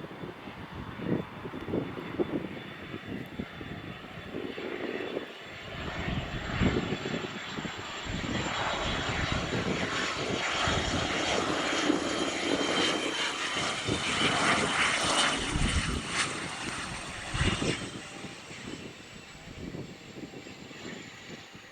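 Cessna 510 Citation Mustang's twin Pratt & Whitney PW615F turbofans passing on its landing, a high engine whine slowly falling in pitch over a rushing jet noise that grows to its loudest a little past the middle and then fades.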